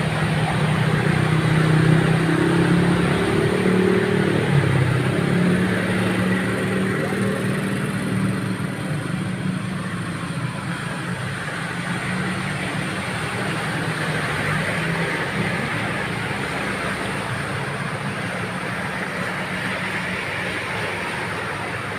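A motor vehicle engine running, most prominent in the first several seconds and then fading, over a steady rushing noise.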